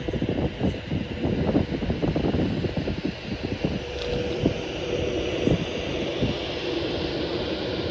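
Train running past on the main line, its wheels clattering over rail joints and pointwork, with a steady high whine joining about halfway through.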